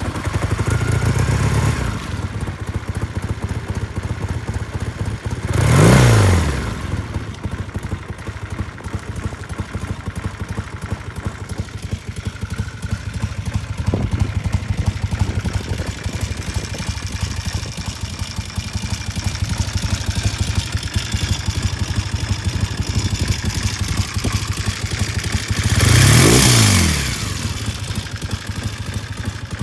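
1973 Triumph T100R Daytona's 500 cc parallel-twin engine catching on a cold start and idling, blipped up and back down twice: about six seconds in and again near the end.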